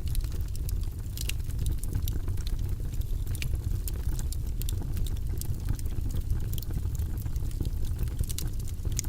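Wood fire crackling in a fireplace: frequent short sharp pops and snaps over a steady low rumble.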